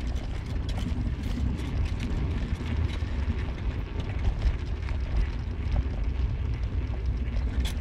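A car moving, heard from inside: a steady low rumble of road and engine noise with frequent small knocks and rattles.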